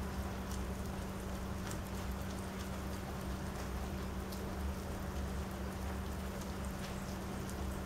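Rain falling steadily onto wet wooden deck boards and the puddles on them. It is an even hiss with scattered sharp ticks of single drops, over a steady low hum.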